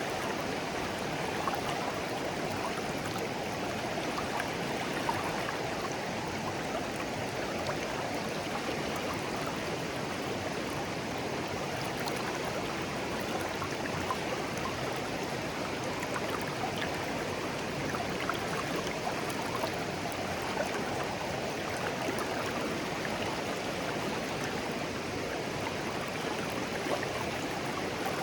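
Shallow clear stream flowing steadily over stones, a continuous babbling and gurgling with small scattered splashes.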